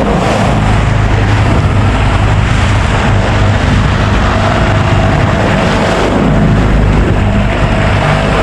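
Small boat's outboard motor running steadily at trolling speed, under a loud, steady rush of wind and water on a choppy sea.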